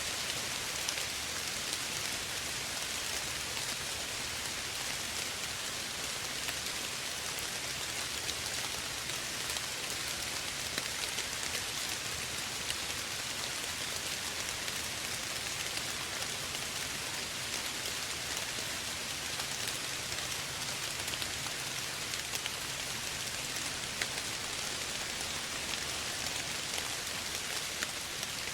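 Steady soft rain falling, a continuous even hiss with many small drop ticks.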